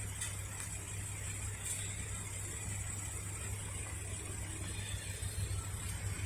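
Steady low engine drone with no change in pitch or level.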